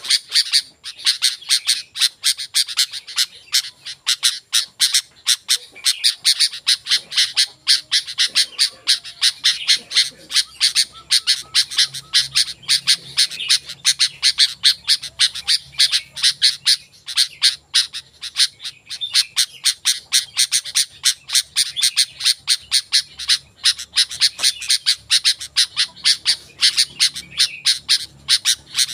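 Sooty-headed bulbul calling without pause: a rapid, unbroken stream of short, sharp chirps, several a second.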